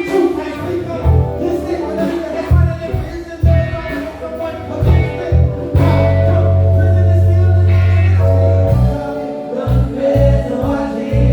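Live soul band playing, with electric bass, drums and keys under a lead melody line. The bass plays short punchy notes, then holds one low note for about three seconds midway through.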